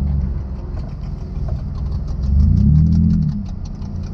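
Pontiac G6 GT's V6 engine heard from inside the cabin while driving at low speed, its revs rising and swelling about halfway through, then easing off, with faint light clicks over it.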